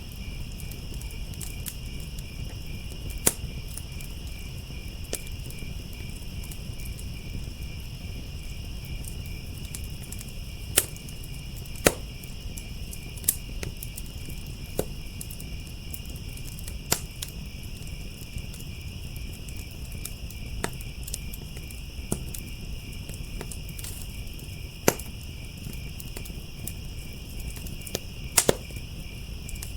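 Crickets chirping in a steady pulsing trill over a crackling wood fire, with sharp pops every few seconds and a low steady rumble beneath.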